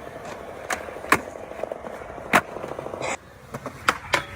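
Skateboard rolling, with several sharp clacks of a board striking the ground scattered through it, the loudest about a second in, past the middle and near the end.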